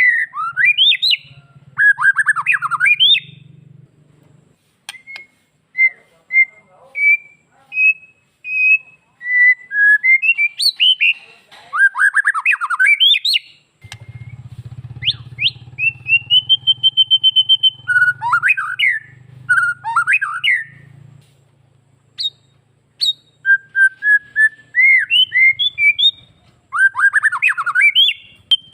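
White-rumped shama (murai batu) singing a continuous, varied song: clear whistled notes, quick chattering runs, and a long steady whistle about halfway through.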